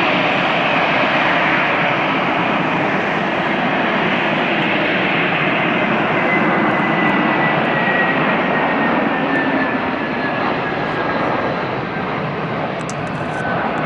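Airbus A320-family jet airliner landing: loud, steady jet engine noise, with a thin whine that slides slowly down in pitch from about halfway through and a slight fade near the end.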